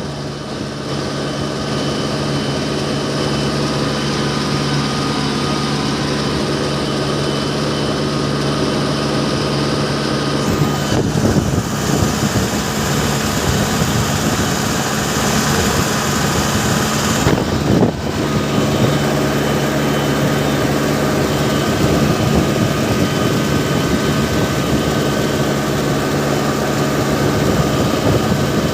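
Mahindra loader's diesel engine running steadily. For several seconds in the middle, from about ten to eighteen seconds in, it grows rougher and noisier, then settles back to its even note.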